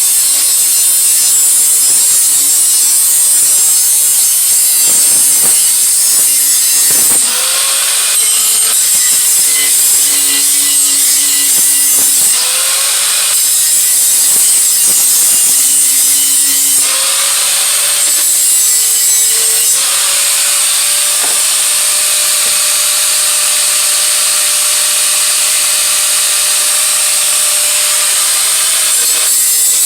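Steady, loud rasping of metal being abraded to clean up an exhaust head pipe for a tighter fit. The sound shifts in pitch and texture a few times as the work pauses and resumes.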